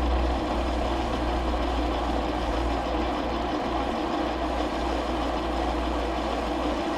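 Metal lathe running steadily while turning down the end of a T-nut blank. Its motor hums low under a constant machining noise.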